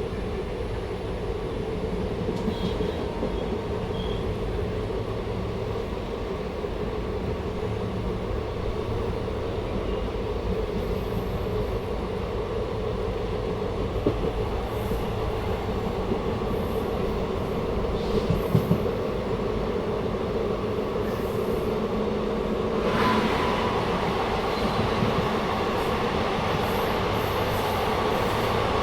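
A passenger train running along the track, heard from on board: a steady rumble of wheels on rails, with a few brief knocks midway. The noise grows brighter about two-thirds of the way through.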